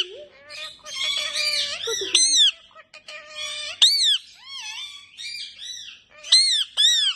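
Pet parrots giving a string of shrill, chattering calls, each rising and falling in pitch, with the loudest calls about four seconds in and again near the end.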